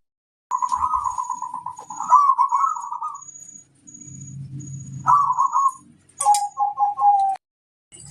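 Zebra dove (perkutut) cooing in rapid, stuttering phrases: a long one, another near the middle, and a last one slightly lower in pitch.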